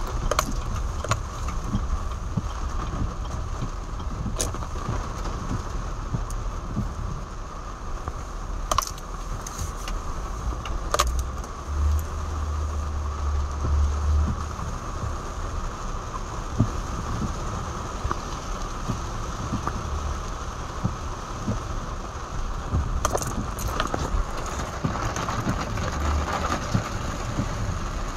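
Heavy rain drumming steadily on a car's roof and windshield, heard from inside the cabin, with a few sharp taps from drops striking the glass. A short low rumble sounds about halfway through.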